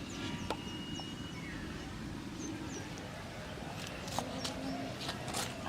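Short, high, downward chirps of small birds over a steady low rumble, with a few sharp clicks in the last couple of seconds.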